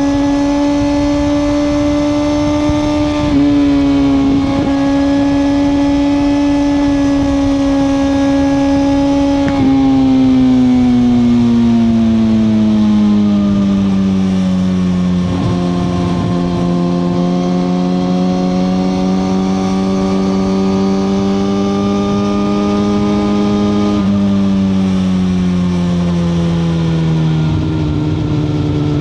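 2021 Suzuki GSX-R1000R's inline-four engine running under way on the road. The note breaks briefly about three and ten seconds in. The revs then fall away, hold and creep up, and fall again near the end.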